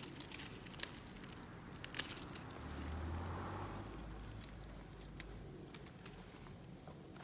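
Wood fire crackling with scattered sharp pops, several close together in the first two seconds. A low rumble rises under it for a few seconds in the middle.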